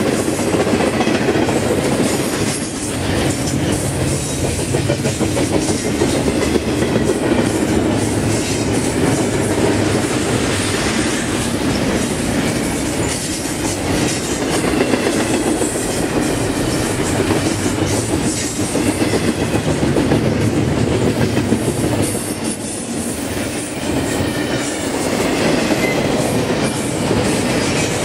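Double-stack intermodal container train's cars rolling past close by: a steady rumble and clickety-clack of steel wheels over the rail joints, with a faint wheel squeal in places.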